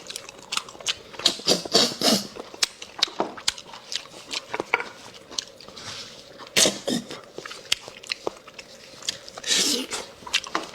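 A person sucking marrow out of spicy bones and eating it: loud slurps and sucking draws, the longest about two thirds of the way in and near the end, among wet lip smacks and chewing clicks.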